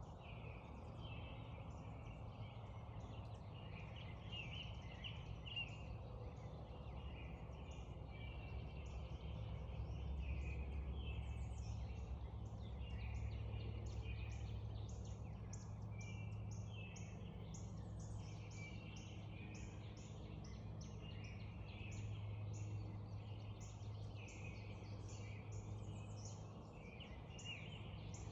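Spring dawn chorus: many birds singing and calling over one another, with a long run of short, evenly repeated high notes in the second half. Underneath runs a steady low rumble that swells around the middle.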